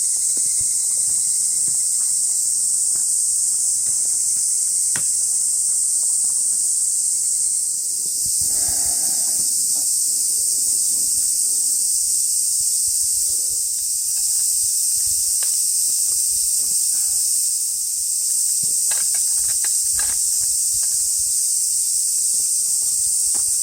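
Steady, loud, high-pitched insect chorus droning without a break, with scattered light clicks and knocks over it.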